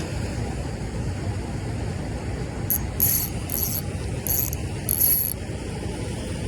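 Fishing reel clicking and whirring in short spells, starting about halfway through, over a steady low rumble of wind on the microphone.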